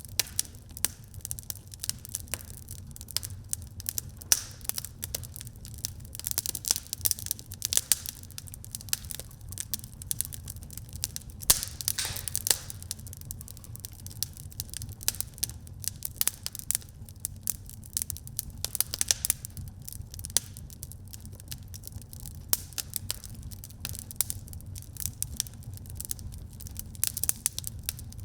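Wood fire burning in a fireplace: a steady low rumble of flame under many irregular sharp crackles and pops, thicker around the middle.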